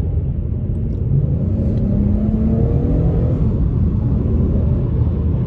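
Car engine accelerating hard in sport mode, its note rising in pitch over about two seconds over a heavy low rumble of road and exhaust, heard from inside the cabin.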